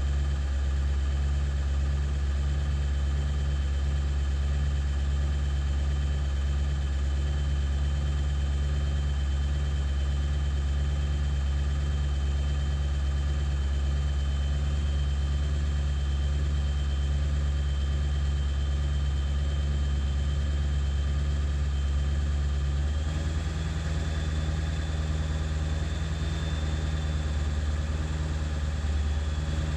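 Ford 7.3 Powerstroke turbo-diesel V8 idling steadily, with a high whine that steps up slightly in pitch about two-thirds of the way through. The owner finds the idle rough even after replacing the injection control pressure (ICP) sensor.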